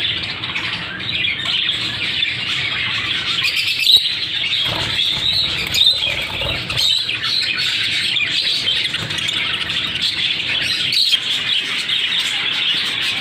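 A flock of budgerigars chattering and chirping continuously in a dense, high-pitched mass of calls, with a few louder chirps standing out.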